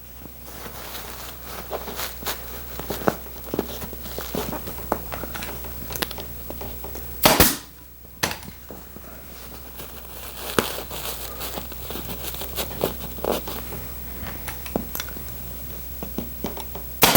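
Muslin and horsehair stuffing rustling and crackling as the cloth is pulled and smoothed over a sofa seat, with a staple gun firing temporary staples once about seven seconds in and again at the very end.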